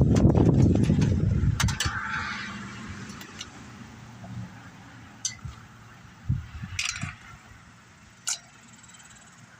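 Hand work on a chainsaw's top cover and spark plug: scattered sharp clicks and clinks of tools and plastic parts, after a loud low rumble in the first second or so.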